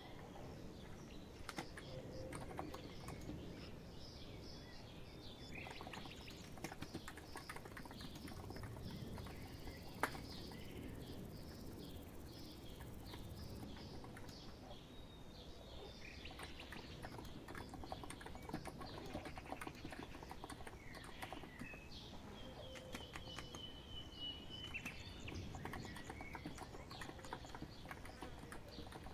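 Steady typing on a COX Empress electro-capacitive (non-contact) keyboard, a dense run of soft keystrokes, with birds chirping and whistling over it. One sharper click stands out about ten seconds in.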